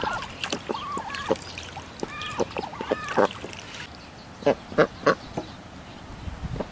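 Ducks quacking: a quick run of short calls, a lull, then a few sharper calls.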